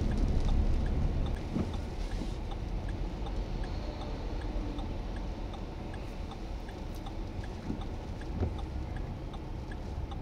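Steady low rumble of storm wind and vehicle noise, a little louder for the first two seconds, with faint, evenly spaced ticks about once every three-quarters of a second.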